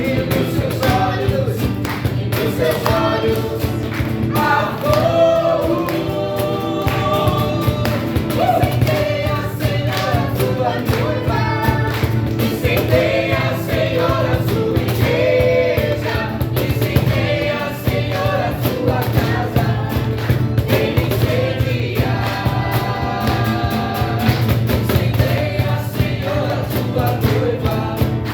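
Gospel praise song: a group of voices singing together over instrumental backing with a steady beat.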